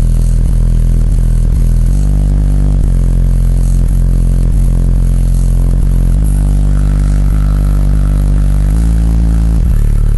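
Bass-heavy music played very loud through a Kicker L7 15-inch subwoofer in a car, long deep bass notes shifting pitch every second or two, with the car's panels rattling and buzzing along. The rattling is the sign of a car without sound deadener, which the owner says he badly needs.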